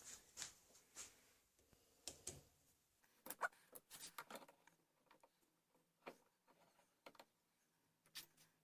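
Faint, scattered clicks and light taps of hand tools and small parts being handled at a workbench, busiest about three to four and a half seconds in. A faint low hum comes in about halfway.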